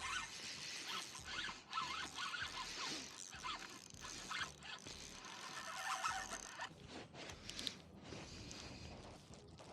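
Mechanical ratcheting and whirring, typical of a spinning fishing reel being worked, with irregular short squeaks; it eases off in the last few seconds.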